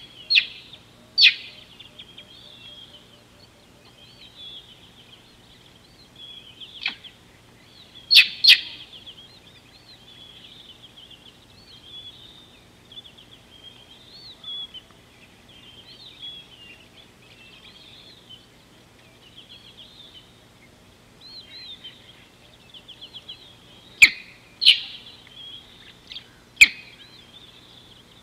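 Wild birds chirping and trilling continuously, with several loud, sharp calls standing out: one just after the start, two about eight seconds in, and three close together near the end.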